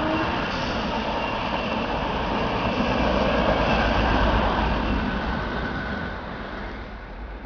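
Passenger train of coaches rolling past, its wheels running steadily over the rails. The rumble swells to its loudest about three to four seconds in, then fades as the last coach goes by.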